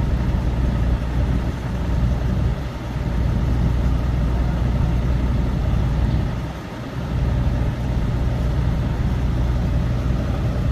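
Truck engine running with a steady low drone, dipping briefly twice.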